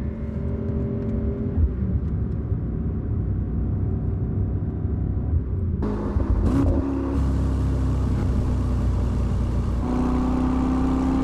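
Mercedes-AMG GT 63's 4.0-litre twin-turbo V8 running while the car is driven, a steady engine note that changes abruptly about six seconds in and climbs slowly in pitch near the end as the engine speed rises.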